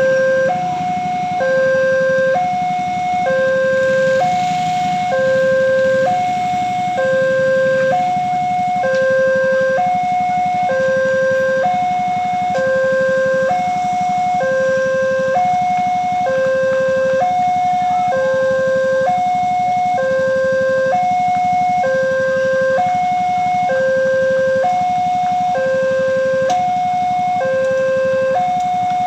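Indonesian railroad level-crossing warning alarm sounding: two electronic tones, one lower and one higher, alternating about once a second, a steady two-note signal that a train is approaching. A low rumble of traffic runs underneath, strongest in the first few seconds.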